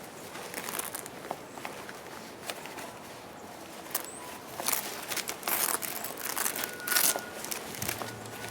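Camping gear being handled: rustling and crinkling with scattered light clicks and knocks, busier in the second half.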